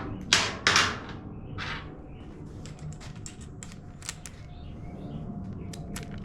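Tool and hardware handling on the plastic housing of a generator being taken apart: a few sharp clacks in the first two seconds, then scattered small clicks.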